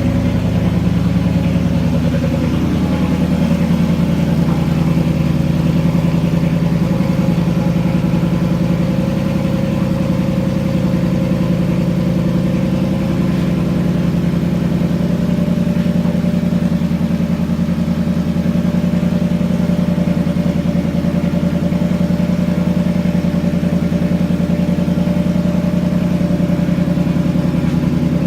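2016 Mustang GT's 5.0 L V8 idling steadily through a Ford Performance by Borla sport cat-back exhaust shortly after a winter cold start.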